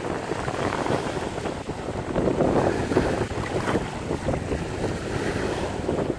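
Strong wind buffeting the microphone in uneven gusts, over the wash of choppy bay waves.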